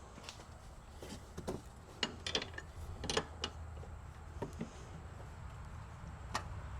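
Irregular light clicks and metallic knocks from hand tools and bike parts being handled during e-bike assembly, with a cluster of them a couple of seconds in.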